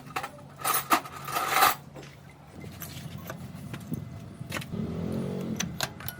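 Metallic clinking and clattering, loudest in the first couple of seconds, over a low steady hum.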